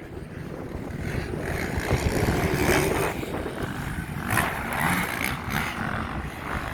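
Motocross dirt bike engines revving as the bikes race past, rising and falling in pitch, with wind buffeting the microphone.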